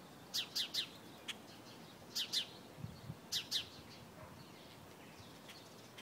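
A small bird chirping: quick high chirps that fall in pitch, in three groups of two or three, with a few fainter chirps toward the end.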